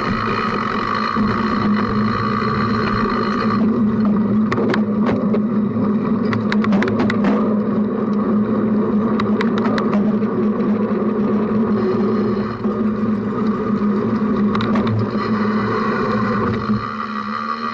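Cyclocross bike ridden at speed, heard from a camera mounted on the front of the bike: a steady rolling hum, with a run of rattling clicks from about 4 to 10 seconds in.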